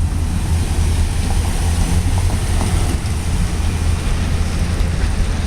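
Wind buffeting the microphone outdoors: a steady low rumble under an even hiss.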